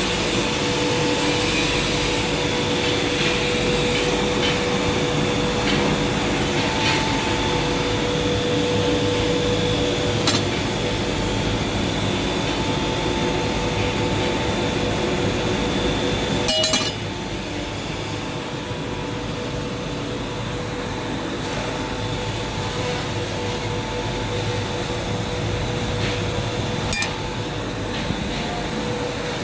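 Industrial machinery running with a steady drone and humming tones, with a few sharp metallic clinks. The sound gets a little quieter after a clink about halfway through.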